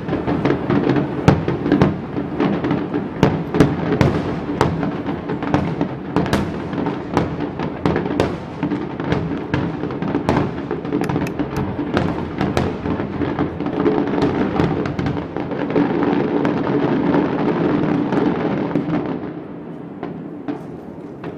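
Aerial fireworks going off in a dense barrage: many overlapping booms and crackles in quick succession, thinning out and dying away about nineteen seconds in.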